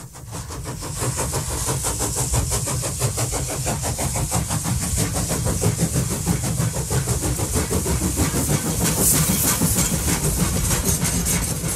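A running train, a steady fast rumble with hiss on top, fading in from silence and building over the first second.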